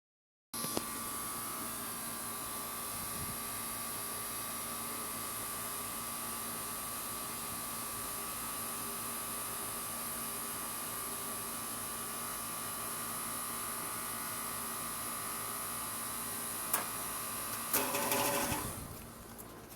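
Carrier 38CKC central air condensing unit running with a steady electrical hum and whine. Near the end there is a click, then a brief louder rush that falls away as the sound drops off, as the short-cycling unit cuts out.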